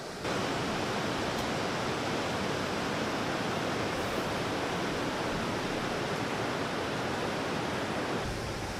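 Steady rush of fast-flowing water from rapids or a waterfall. It cuts in abruptly just after the start and drops a little near the end.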